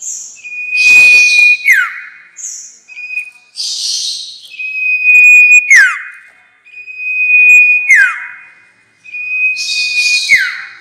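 Sirtu songbird lure call, a recording looped for trapping, repeating about every two seconds. Each phrase is a held high whistle that ends in a quick downward slur, mixed with harsh buzzy chatter.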